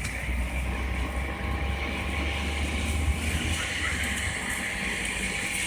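Street traffic noise: a low rumble that fades out about three and a half seconds in, over a steady hiss like tyres on a wet, slushy road.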